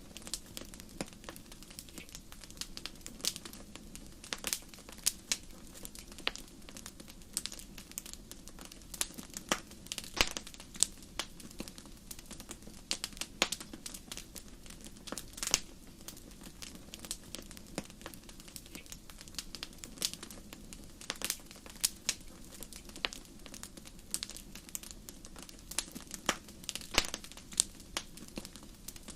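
Wood fire burning in a fireplace, crackling with irregular sharp pops and snaps over a low steady rush of flame.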